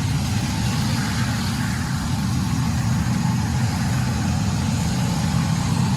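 A steady low rumble, like a vehicle engine or road noise, with no distinct knocks or impacts.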